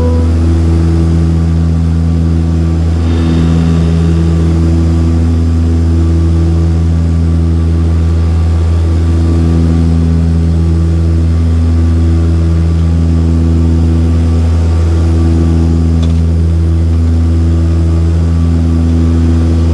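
Saab 340B turboprop propeller drone heard from a seat beside the propeller: a loud, steady low hum with a slow, regular pulsing in its higher tones.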